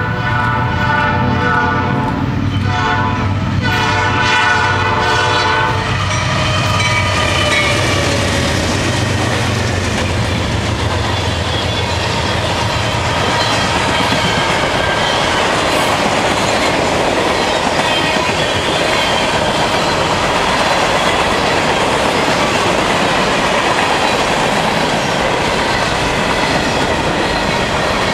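Diesel freight locomotive sounding its multi-chime horn in three blasts as it approaches, then wheels clattering over the rail joints as a long string of freight cars rolls past.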